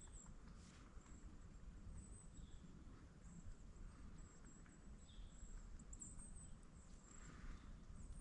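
Near silence in a swamp: faint, short, high-pitched bird chirps here and there over a low background rumble, with a soft swish near the end.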